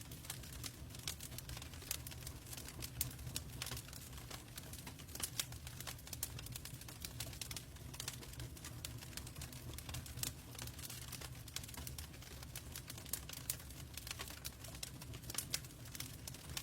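Log fire burning in a fireplace, crackling with dense, irregular sharp pops and snaps over a steady low rumble.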